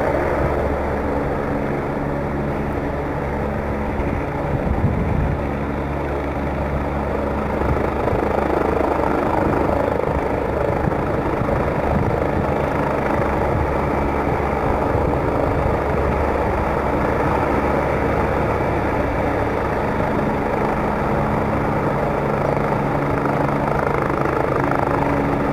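Helicopter hovering, its rotor and engine running steadily at an even pitch, with a brief louder rush about five seconds in.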